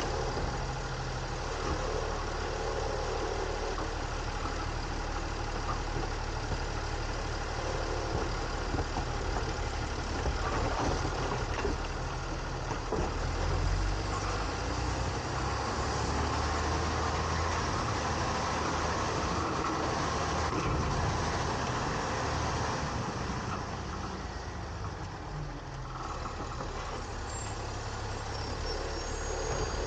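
Diesel engine of a garbage truck with a side-loader trash body running steadily, growing louder and fuller through the middle stretch, easing off, then picking up again near the end.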